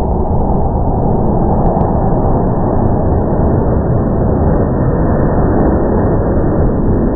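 Steady, loud roar of a fighter jet's engines, holding level throughout with no clear rise or fall.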